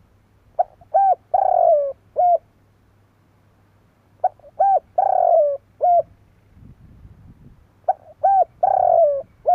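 Spotted dove (Streptopelia chinensis) singing: three cooing phrases, each of two short notes, a longer falling coo and a short closing note, repeated about every three and a half seconds.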